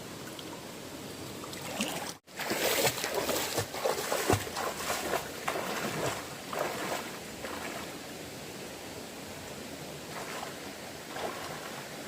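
Steady rush of fast-flowing stream water, with an irregular run of splashing and sloshing from about two seconds in that dies away a few seconds later.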